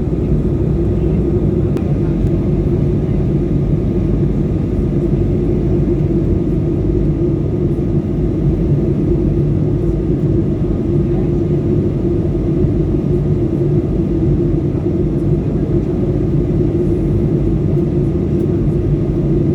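Steady drone of a jet airliner's engines and airflow heard from inside the passenger cabin in flight, with a constant low hum that does not change.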